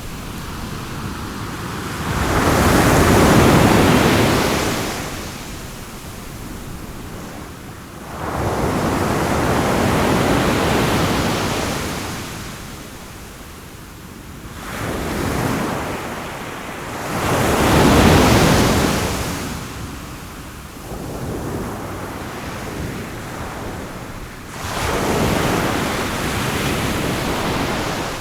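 Ocean waves breaking and washing up a shore, each surge swelling and drawing back every few seconds.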